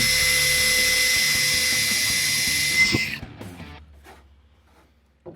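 Electric drill running at steady speed as it bores 1/8 inch pilot holes in sheet-metal rocker panels, a high whine for about three seconds that then winds down and stops.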